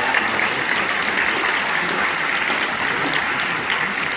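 An audience applauding steadily, many hands clapping in a dense patter that eases off slightly near the end.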